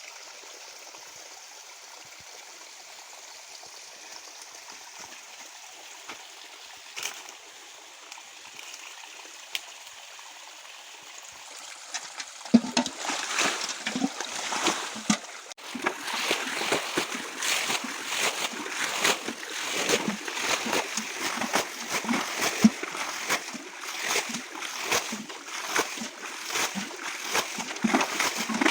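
A small, shallow stream trickling steadily. From about twelve seconds in, continual irregular splashing in the shallow water joins it and grows louder.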